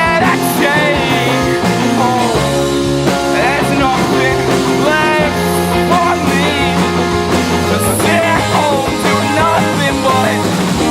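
Punk/emo rock song with electric guitars and a band playing loud and steady, and a melodic line that wavers in pitch above it.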